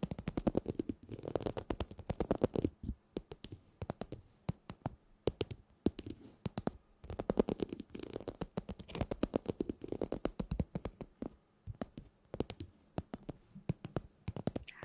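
Rapid, close-miked tapping and clicking, coming in bursts of quick strokes with short pauses between them.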